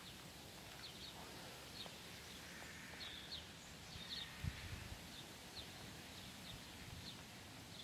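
Faint outdoor background noise with a small bird chirping in short, high notes over and over. A soft low thump comes about four and a half seconds in.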